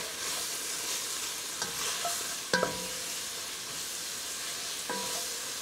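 Onions, garlic and seasonings sizzling in an enameled Dutch oven while a wooden spatula stirs and scrapes them around. A few knocks of the spatula against the pot, two of them ringing, come about two and a half and five seconds in.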